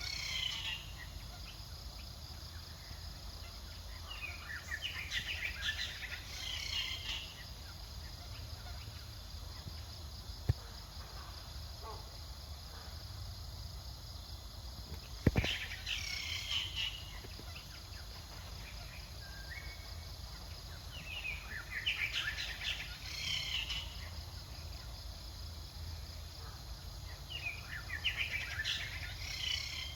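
Outdoor forest ambience: a steady insect drone, with bursts of high chirping calls every five or six seconds and two sharp clicks midway.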